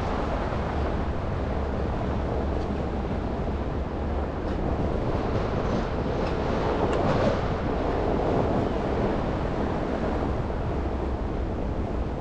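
Traffic and road noise from a car driving through city streets after snow: a steady tyre hiss over a low engine rumble, swelling louder between about six and nine seconds in.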